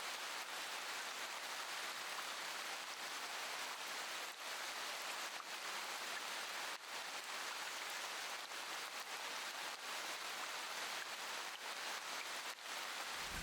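Steady rain falling, an even hiss with faint scattered drips. A low rumble of thunder starts at the very end.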